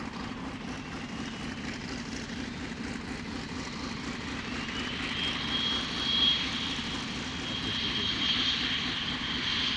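Aircraft flying by: a steady engine drone with a high whistling tone that rises about four seconds in and then holds, loudest a little past the middle.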